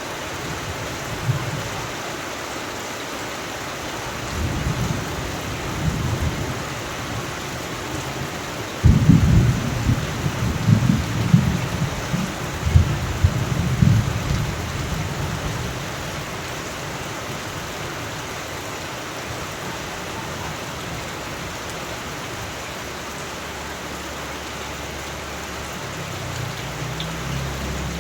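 Steady rain with thunder. A low rumble rises about four seconds in, then a sudden, louder clap about nine seconds in rolls on for several seconds before dying back under the rain.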